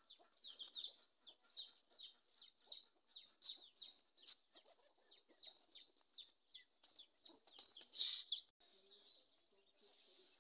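Birds chirping: short, high, falling chirps repeated about three times a second, the loudest about eight seconds in. Near the end the chirping cuts off and a faint low hum with a steady tone is left.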